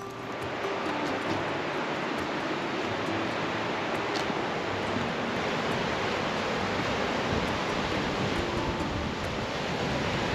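Steady rushing of river rapids, the Cape Fear River running over rocks at Fish Trap Falls.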